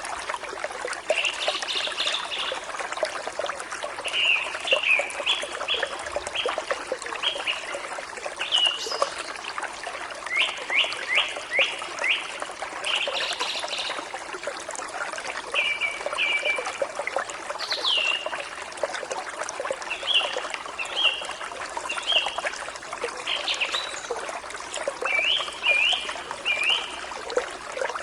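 Forest stream running steadily, with songbirds singing short chirps over it, often in quick runs of three or four notes.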